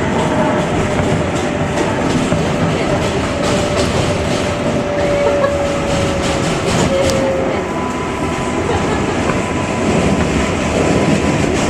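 New York City Subway 7 express train running at speed, heard from on board: a steady rumble with wheel clatter. A thin whine sinks slowly in pitch and fades about seven seconds in, and a fainter higher tone comes in after it.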